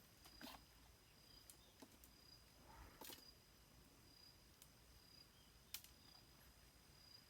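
Near silence, broken by a few faint, sharp clicks at irregular intervals.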